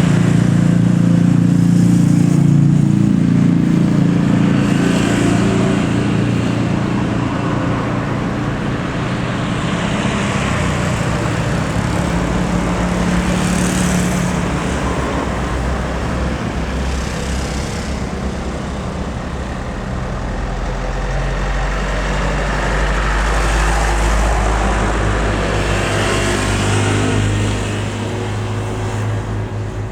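Jet airliner engine noise at close range, loud and continuous. A deep rumble comes in during the second half, and it fades near the end.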